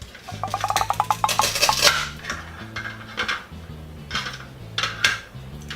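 Clicks and clatters of a plastic toy knife cutting a toy pear into two halves, over background music with a steady bass line.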